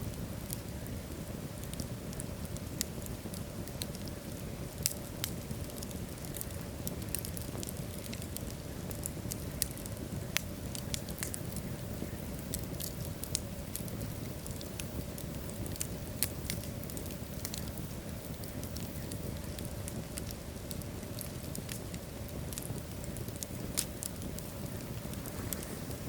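Wood logs burning in a fireplace: a steady low noise of the flames with frequent, irregular sharp crackles and pops.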